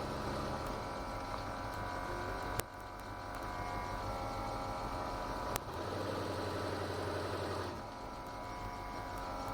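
Ford GT40's V8 engine running steadily at parade pace, heard from the cockpit, with two sharp clicks about three seconds apart and a change in the engine note after each.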